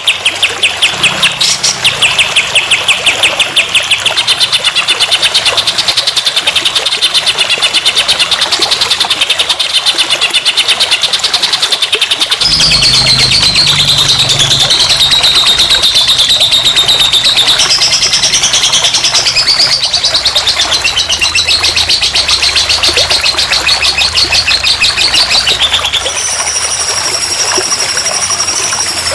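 Recorded songbird song played as a masteran training track for a young magpie-robin: loud, rapid, repeated chirping trills. The song changes abruptly to a different phrase about twelve seconds in and again near the end.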